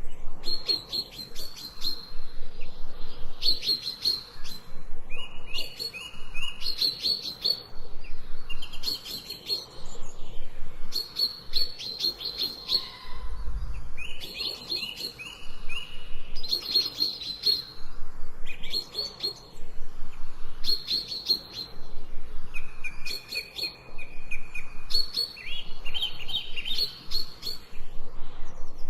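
Songbirds chirping in short phrases of quick high notes, about one phrase every two seconds, some with a lower trill. A brief low thud comes about halfway through.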